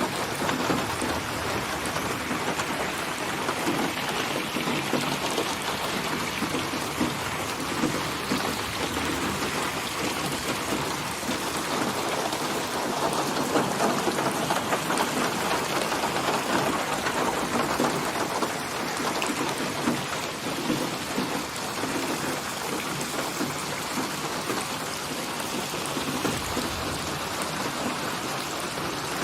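Steady rainfall: an even hiss of rain with many small drops tapping on a surface.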